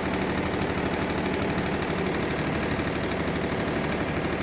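Tractor diesel engine running steadily with a rapid, even firing beat that neither rises nor falls.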